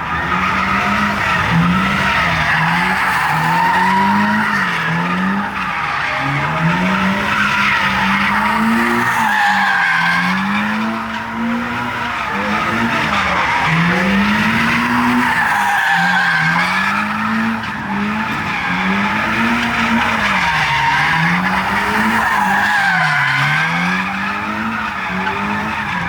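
A car's tyres squealing without a break while its engine revs rise and fall every couple of seconds.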